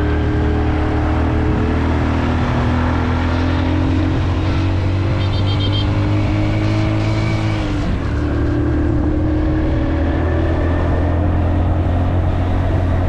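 Motorcycle engine running steadily under load on the ride, its pitch slowly climbing, then dropping briefly about eight seconds in before picking up again.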